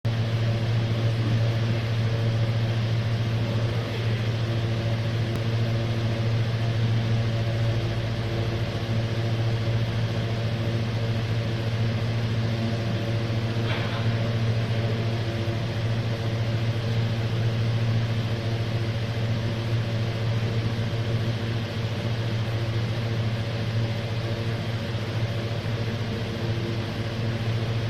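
Weiguang YWF axial fan running steadily under test: a constant low motor hum with the even rush of the blades.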